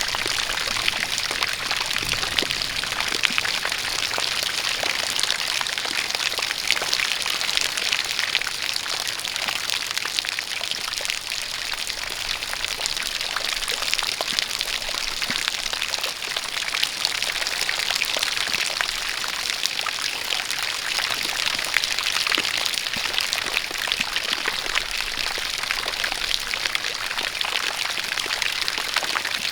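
Steady rain falling, made up of many small drop hits, with a stream of water pouring from a spout, at an even level throughout.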